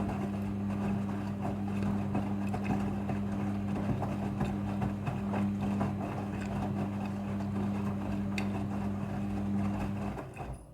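Front-loading washing machine running: the motor hums steadily while the drum turns, with the wet load tumbling and water sloshing. The motor stops suddenly near the end as the drum pauses between turns.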